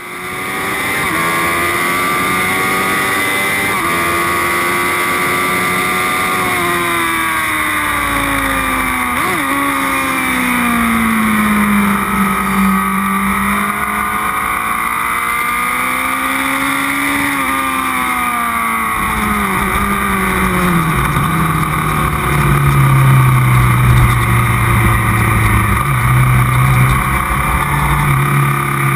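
Car engine heard from on board on a race circuit. The engine note holds high, sinks as the car slows, climbs again, then falls to a low steady drone, with wind and road noise throughout and a heavier low rumble in the last third.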